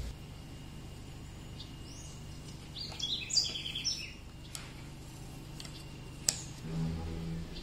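A bird chirping, a short run of quick high chirps about three seconds in, over a low steady hum. A single sharp click comes near the end.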